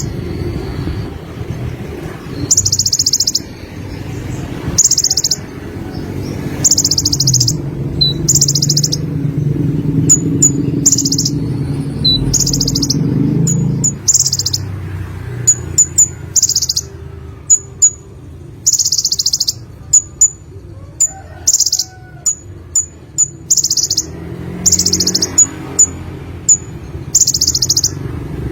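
Konin (kolibri ninja) sunbird singing: short, high, buzzy trilled phrases repeated every second or two, with quick sharp chips in between. A low steady rumble sits under the first half and fades about halfway through.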